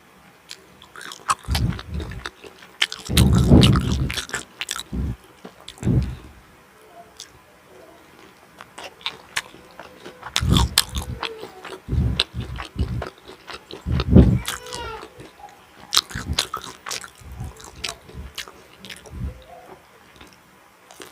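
Close-miked eating sounds: a mouth biting into and chewing food in repeated bursts a second or more apart, with sticky, crackly mouth noises between them.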